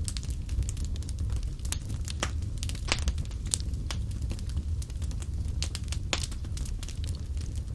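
Wood fire in a fireplace crackling: a steady low rumble of flames with irregular sharp pops and snaps of burning logs.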